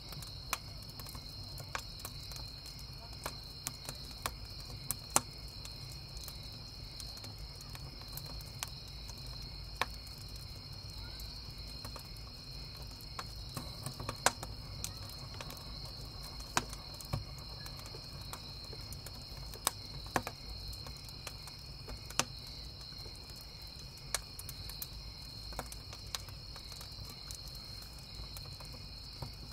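Wood campfire crackling with irregular sharp pops over a steady chorus of chirping crickets.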